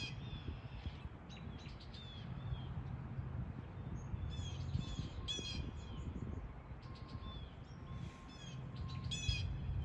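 Birds calling: quick runs of high chirps every second or two, over a steady low rumble.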